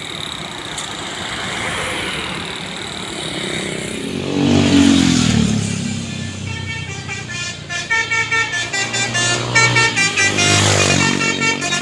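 Passing road traffic: a heavy vehicle's engine goes by close with a falling pitch about four seconds in, then a tour bus's multi-tone horn sounds in rapid repeated toots that shift in pitch, while more traffic passes.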